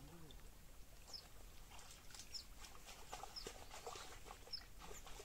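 Faint outdoor ambience: a bird giving repeated short, high chirps, with scattered faint clicks and knocks.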